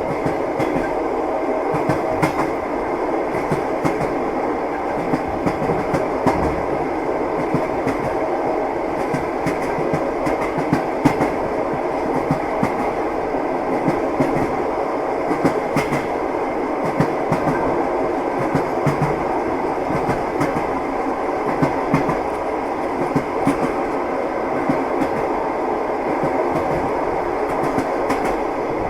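Passenger train running along the track, heard from inside the carriage: a steady rumble with the clickety-clack of the wheels over the rail joints.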